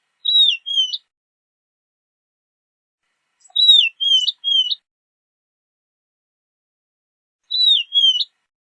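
Horned lark calling: three short phrases, each of two or three high, slurred whistled notes, one phrase about every four seconds with silence between.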